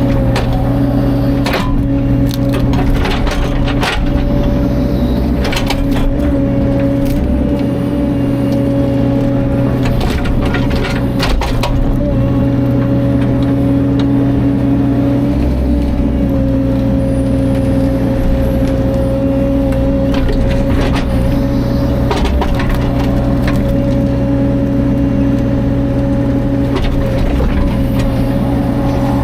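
Caterpillar 305.5 mini excavator's diesel engine running at a steady speed throughout, with repeated sharp cracks and knocks coming in clusters over it.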